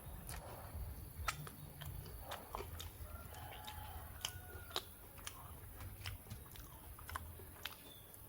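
A person chewing and biting food close to the microphone, with irregular sharp clicks and crunches of the mouth and food.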